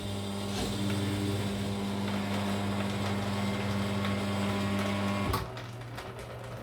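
Tchibo Carimali coffee machine running a stage of its cleaning cycle: a steady mechanical hum, typical of its water pump, that cuts off with a click about five seconds in, leaving a fainter hum.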